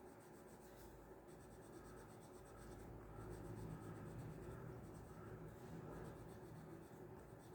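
Faint rubbing and scratching of colour being shaded onto paper by hand in slow strokes.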